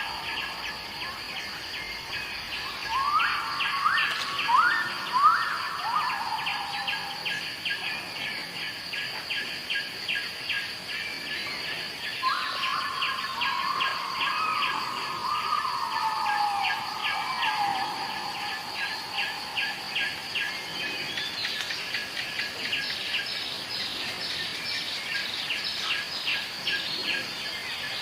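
Jungle birds calling over an insect chorus. A steady high insect drone and an even, rapid pulsing chirp run throughout, and whistled bird calls sliding downward in pitch come a few seconds in and again through the middle.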